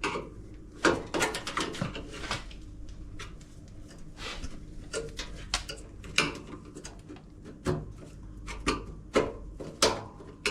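Irregular clicks, knocks and scraping of plastic and metal parts and tools being handled while a washing machine is taken apart by hand.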